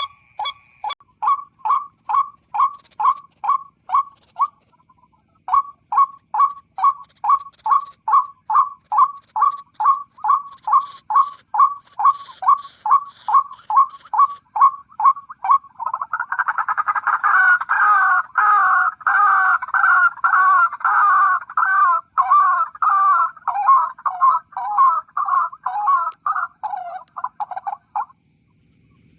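White-breasted waterhen calls played as a bird-catching lure from an MP3 player: a steady run of short repeated notes, about two or three a second, with a brief pause around five seconds in. From about sixteen seconds in they turn into a louder, denser run of overlapping calls that stops shortly before the end.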